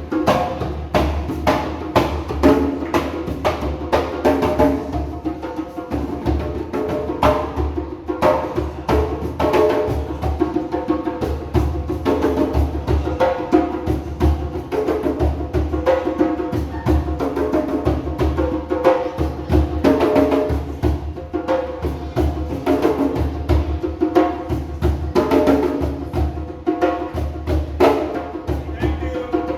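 Several djembe drums played together in a fast, continuous rhythm, with deep bass strokes and sharp slaps.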